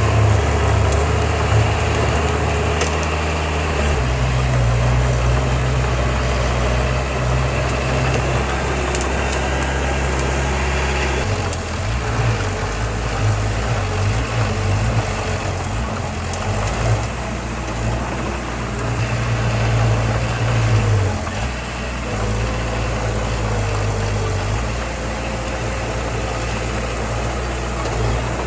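Heavy diesel machinery engines running steadily, with the engine note shifting about four seconds in and again about twelve seconds in.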